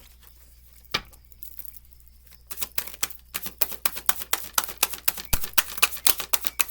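A deck of tarot cards being shuffled by hand: a single tap about a second in, then a quick run of sharp clicks from about two and a half seconds in.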